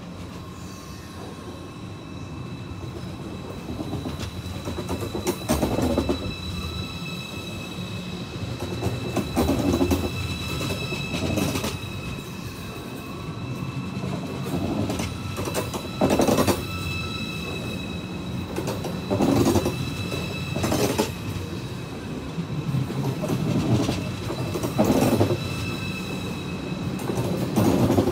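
ICE high-speed train rolling slowly past along the platform, its wheelsets clattering over rail joints in groups every second or two, closer together toward the end as it picks up speed. A steady high-pitched whine runs over the rumble.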